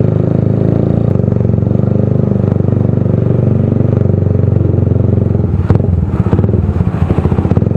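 Motorcycle running loud through an open aftermarket exhaust pipe, a steady low engine note that turns choppy and uneven for a couple of seconds near the end.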